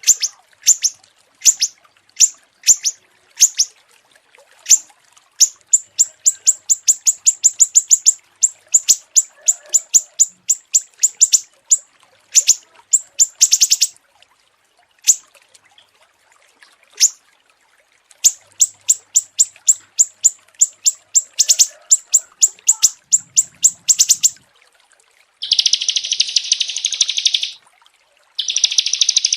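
Small songbirds calling: sharp, high chirps, at first spaced out, then in fast rattling runs, with a short lull midway. Near the end come two harsh buzzing trills of a second or two each.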